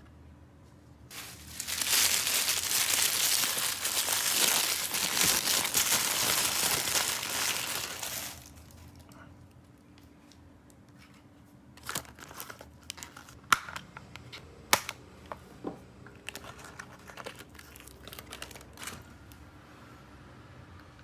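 Plastic toy packaging being crinkled and torn open: a loud, dense crinkling for about seven seconds, then a few scattered sharp crackles and clicks as the wrapping is handled more lightly.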